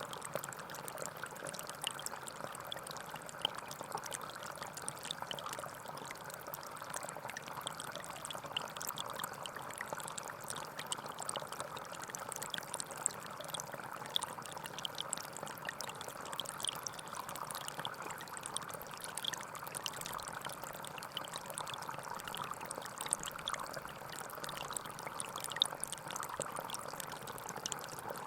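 Gentle forest stream flowing steadily: a continuous burble of running water with many small, bright splashes and drips over it.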